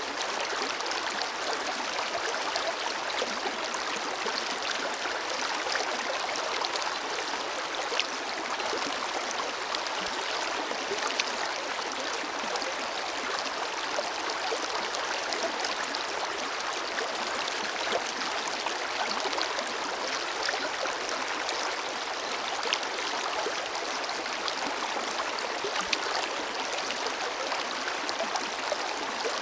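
A forest river flowing steadily, a constant rush of water with small splashes and gurgles scattered through it.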